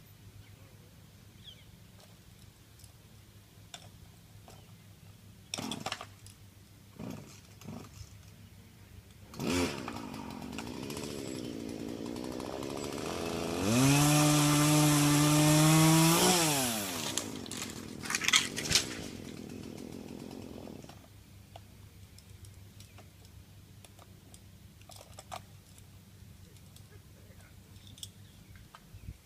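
Chainsaw engine started after a couple of short bursts, running at idle, then revved up to a steady high pitch for about three seconds and let back down to idle before it cuts out.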